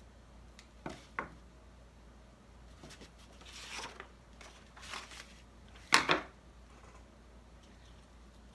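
Craft materials being handled on a tabletop: a couple of light knocks, some rustling, and a sharper knock about six seconds in.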